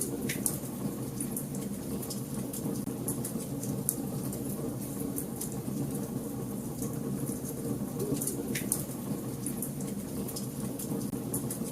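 Wood fire burning in a fireplace: a steady low rush of flame with frequent small crackles and pops, and two sharper snaps, about a third of a second in and about eight and a half seconds in.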